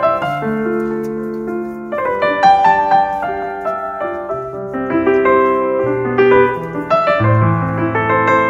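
Background piano music: a melody of held notes over changing bass notes.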